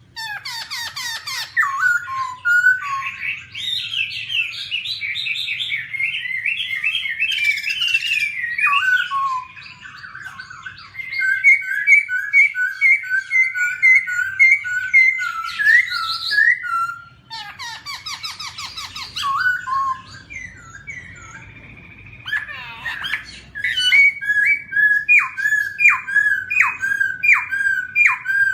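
Black-throated laughingthrush singing a long, varied song of loud whistled phrases and repeated notes, broken by several short harsh, scratchy bursts. Near the end it repeats a quick series of down-slurred whistles.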